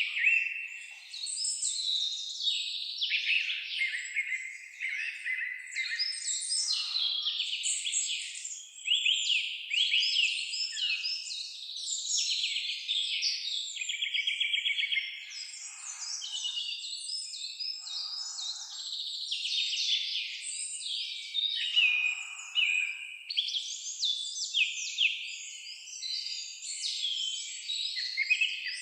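Several songbirds singing at once in a dense chorus of chirps, trills and whistles, with a few softer, lower calls underneath.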